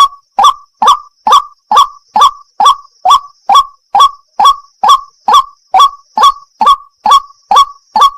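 White-breasted waterhen ('wak-wak' bird) calling over and over in a fast, even rhythm of about two to three short rising notes a second.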